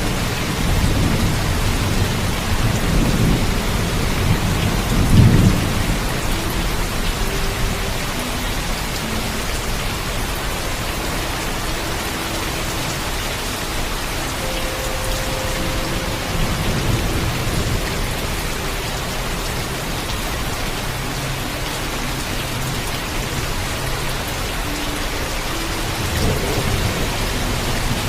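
Steady heavy rain with rolls of thunder rumbling low, the loudest peaking about five seconds in and another near the end.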